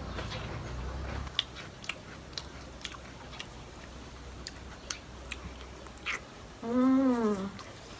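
Close-up mouth sounds of eating curry by hand: chewing with small wet clicks and smacks. Near the end comes one short pitched sound, under a second long, rising and then falling in pitch.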